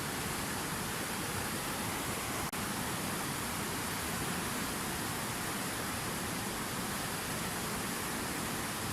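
Fountain waterfall: a steady, even rush of falling water, with a momentary dropout about two and a half seconds in.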